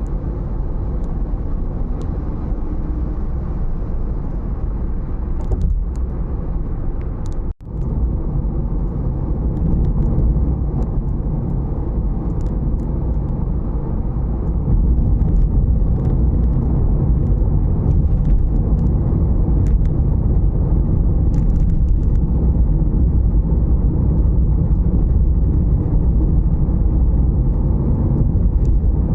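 Strong dust-storm wind buffeting the microphone: a loud, steady low rumble that cuts out briefly about seven and a half seconds in and grows louder about halfway through.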